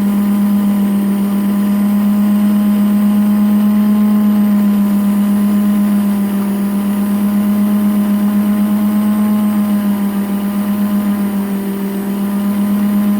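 Rose engine lathe running with the motor-driven cutter of its universal cutting frame spinning, a loud steady electric hum with fainter higher tones above it, as the cutter begins cutting into a maple bowl.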